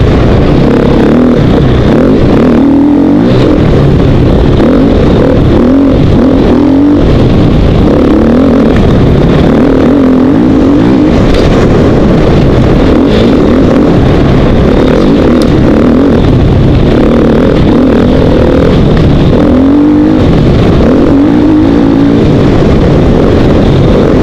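2012 KTM 450 XC-W's single-cylinder four-stroke engine running hard on a dirt trail, its pitch rising and falling every few seconds with the throttle, loud and close from a bike-mounted camera.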